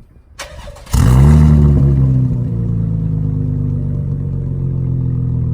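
A 2017 Chevrolet Camaro's 3.6-litre V6, muffler deleted and straight-piped, started up: a brief crank, then the engine catches about a second in with a loud flare of revs that falls away and settles into a steady idle through the open exhaust.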